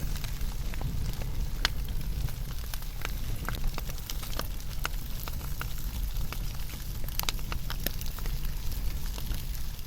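Wood fire burning, with frequent irregular crackles and sharp pops from the burning wood over a steady low rumble of the flames.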